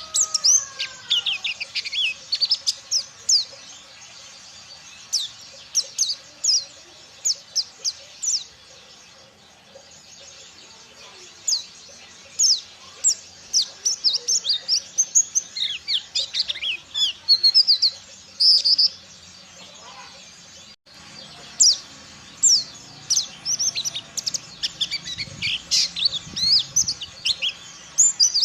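Pleci (white-eye, Dakun Ciremai type) singing a rapid chattering song of short, high chirps. The song eases off for a couple of seconds around ten seconds in and briefly cuts out just after twenty seconds.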